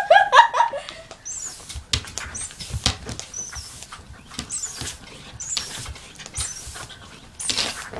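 A small dog's mouth and nose noises: scattered clicks and a few short, high squeaks.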